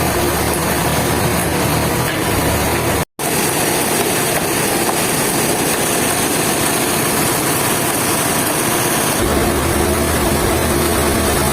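A loud engine running steadily. The sound cuts out for an instant about three seconds in, and its low end gets stronger about nine seconds in.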